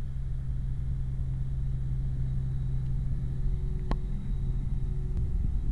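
Steady low hum over a rumble of railway train machinery, with one sharp click about four seconds in; the hum stops shortly before the end.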